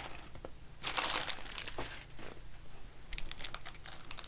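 Plastic trading-card pack wrappers crinkling and tearing as packs are opened by hand: a longer rustle about a second in, then a run of short crackles near the end.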